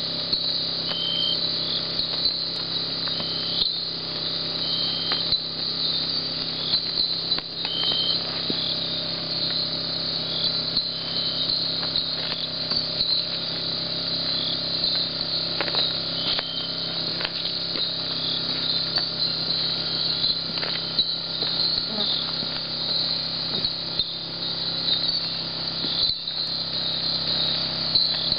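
Night insect chorus: a steady, dense high-pitched trilling of crickets, with a short chirp recurring every few seconds and a low steady hum underneath.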